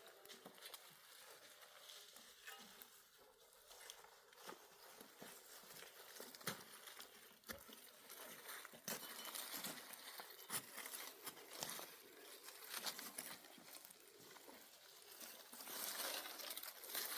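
Faint rustling with many scattered light knocks and clicks, growing somewhat louder about halfway through and again near the end.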